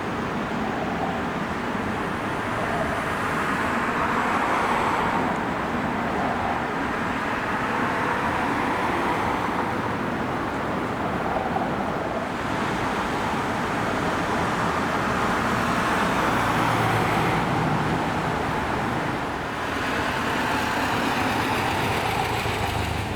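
Road traffic: several vehicles pass one after another, each swelling and fading over a few seconds.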